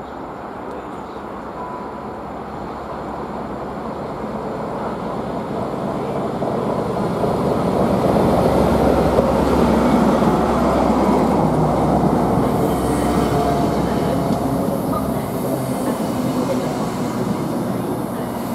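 CrossCountry High Speed Train passing along the platform. The Class 43 diesel power car's sound grows steadily louder as it approaches and is loudest as it goes by about halfway through. After it come the wheels of the Mark 3 coaches running over the rails.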